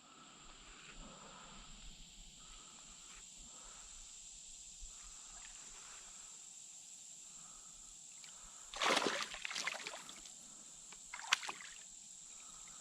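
Water splashing and sloshing against a canoe twice, the first about nine seconds in and lasting about a second, the second shorter, over a steady high hum of insects with faint chirps about once a second.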